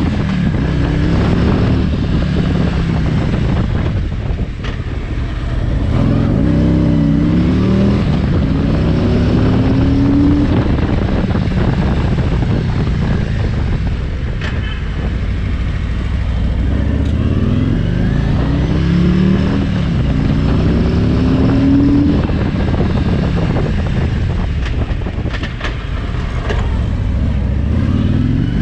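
Harley-Davidson Road King's 1745 cc Milwaukee-Eight 107 V-twin engine running under way, its pitch rising in repeated pulls as the bike accelerates through the gears, over a steady low rush of road noise.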